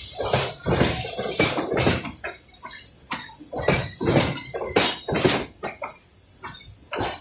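Freight train passing, its wheels knocking and clattering irregularly on the track, with a low rumble underneath.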